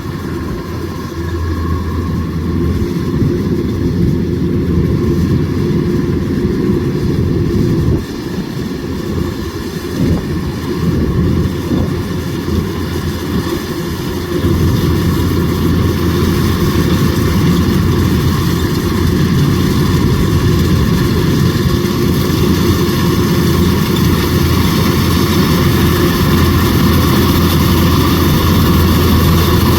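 Kubota DC105X combine harvester running steadily, its diesel engine and machinery under load; the sound dips about a quarter of the way in and comes back louder and steadier about halfway through.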